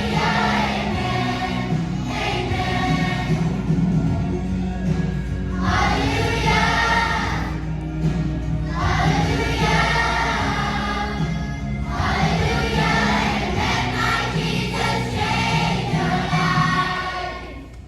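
A children's choir singing a song over a steady instrumental accompaniment, the singing coming in phrases; the song ends just before the end.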